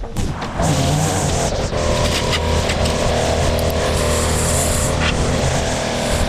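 Engine of outdoor power equipment running steadily at working speed, a constant mechanical drone.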